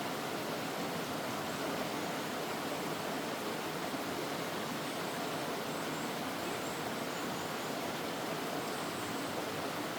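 Mountain stream rushing steadily over rocks, with a few faint high bird chirps in the second half.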